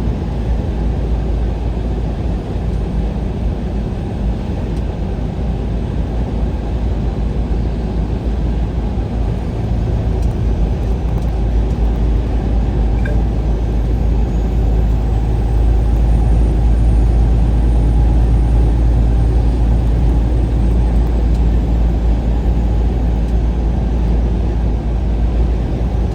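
Road and engine noise of a vehicle on the move: a steady low rumble that grows a little louder past the middle.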